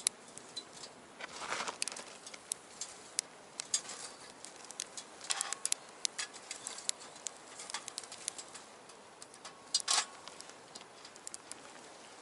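Small wood fire burning in a box stove, crackling and popping with irregular sharp snaps over a faint steady hiss; a few louder pops stand out, at about a second and a half, five and a half, and ten seconds in.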